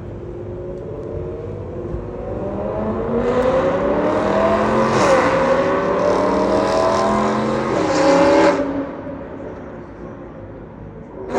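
BMW E92 M3's 4.0-litre V8 accelerating hard, its note climbing, dipping briefly at a gear change about five seconds in, then climbing again until the throttle is lifted after about eight and a half seconds and it falls back to a quieter rumble.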